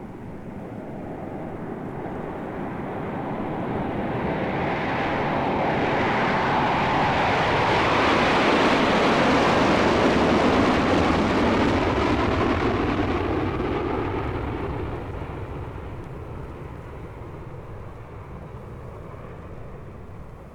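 Jet aeroplane taking off. Its roar swells to a peak about halfway through, then fades as it passes and climbs away.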